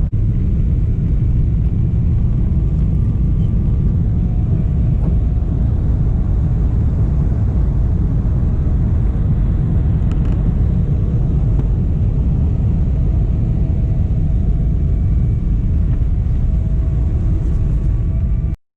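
Jet airliner cabin noise: a loud, steady low rumble of engines and airflow, with a faint whine above it. It cuts off suddenly near the end.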